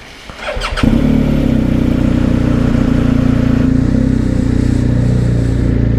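Motorcycle engine starting about a second in, then running at a steady idle.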